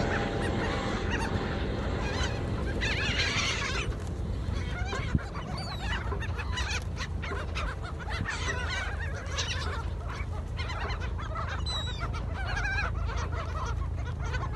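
A flock of gulls calling, many short overlapping cries, over a steady low rumble.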